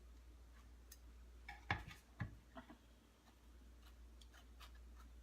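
A table knife spreading a topping on toasted bread: scattered light clicks and taps, with two sharper clicks about two seconds in.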